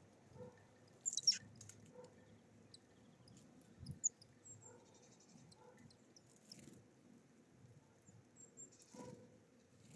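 Small songbirds at a feeder (great tits, sparrows, greenfinches), faint: scattered short high chirps, with light taps and pecking. The sharpest call comes about a second in.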